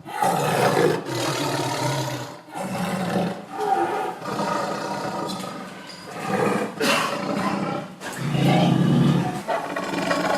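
Tiger roaring and growling, a series of long rough roars with short breaks between them.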